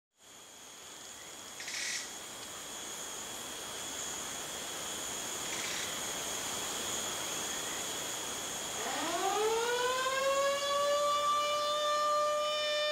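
A steady high-pitched whine over hiss. About nine seconds in, a siren winds up from a low pitch and settles into a steady wail.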